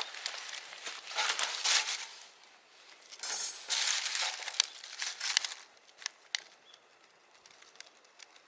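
Crinkling and rustling in two bursts, with sharp clicks mixed in, then a few scattered clicks.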